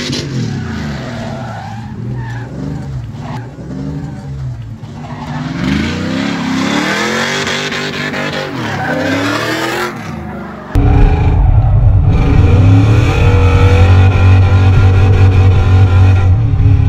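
Pontiac Trans Am WS6's V8 revving up and down with tires skidding as the car drifts. About eleven seconds in, the sound switches to inside the cabin, where the engine is louder and holds a steadier high rev.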